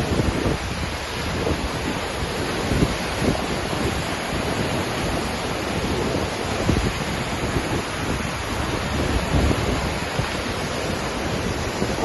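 Waterfall: a steady rush of falling water, with wind buffeting the microphone in low, uneven gusts.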